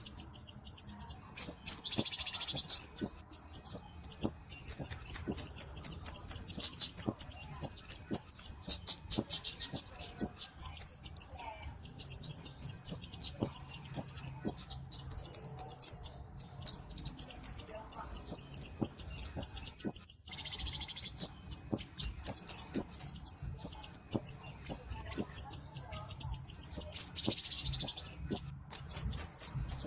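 Kemade flowerpecker calling: long runs of rapid, high-pitched ticking notes, broken by a few short pauses.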